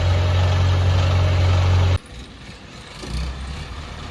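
Heavy vehicle engine running steadily with a deep hum. It cuts off suddenly about halfway through, leaving a quieter engine sound.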